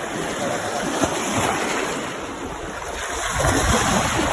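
Sea water washing and splashing at the shore, swelling louder about three seconds in.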